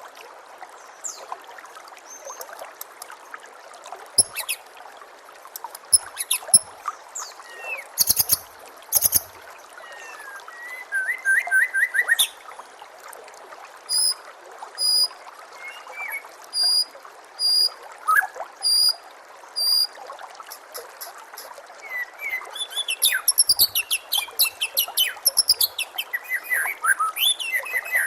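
White-rumped shama (murai batu) singing over a steady trickle of water: varied phrases, a run of evenly spaced clear whistled notes in the middle, and a fast, dense stretch of song near the end.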